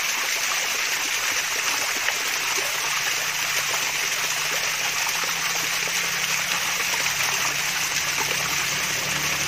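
Water from a mini waterfall splashing and trickling steadily.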